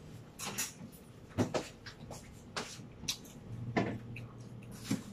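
A person chewing food close to the microphone, with scattered wet clicks and smacks of the mouth. A low steady hum comes in about three and a half seconds in.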